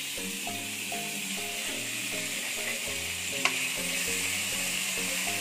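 Flaked canned tuna frying in hot oil in a pan, sizzling steadily from the moment it goes in, with a spoon stirring and one sharp click about halfway through.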